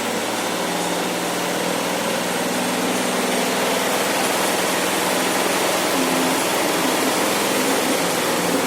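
Washing machine running in service mode with a Bluetooth boombox in its drum: a steady mechanical whir and rumble, with shifting low tones from the speaker's music underneath.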